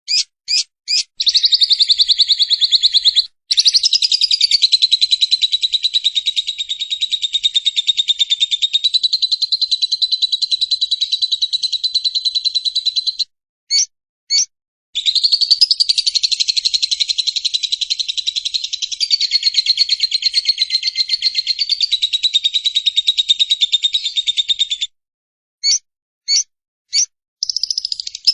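Lovebird's long 'ngekek' chatter: rapid, high-pitched repeated notes run together for about ten seconds at a stretch, twice, with short single chirps before, between and after.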